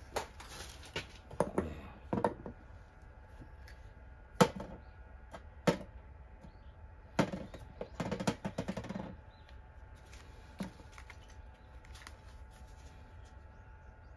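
Scattered clicks and sharp knocks, with a short spell of rattling about eight seconds in, typical of tools and metal parts being handled while working on a small tiller engine.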